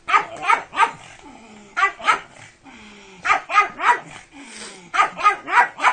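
Pug barking repeatedly: about a dozen short barks in quick clusters of two to four, with brief pauses between clusters.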